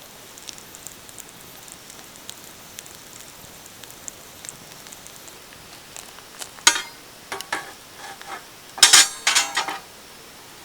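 Wood fire crackling with faint, scattered ticks and pops. Louder clusters of sharp crackles or clatter come about two-thirds of the way in and again near the end, the second the loudest.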